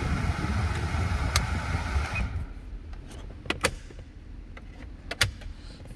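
Steady noise inside the Jaguar XJ's cabin, from a blower or the running engine, cuts off abruptly about two seconds in; then two quick pairs of sharp clicks from the cabin controls.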